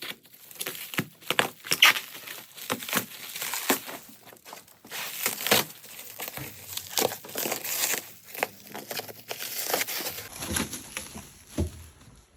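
Packing material being handled and torn: irregular crinkling and ripping that thins out about two seconds before the end, followed by a dull knock.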